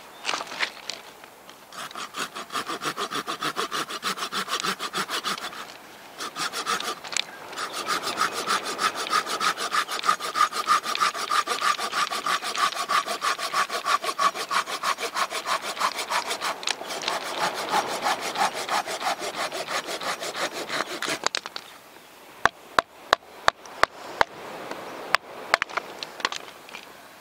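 Hand saw cutting through wood in quick, even back-and-forth strokes, about three or four a second, with two short pauses. The sawing stops and is followed by a quick run of sharp clicks near the end.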